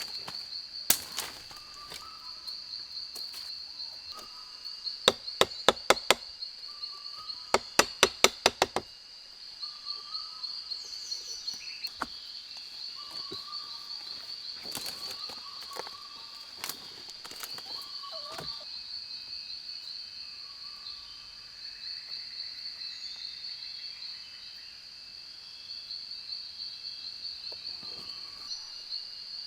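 Insects droning steadily with a high, pulsing buzz, and a short call repeating every second or two. The loudest sounds are two quick runs of sharp knocks or chops, about five seconds in and about eight seconds in.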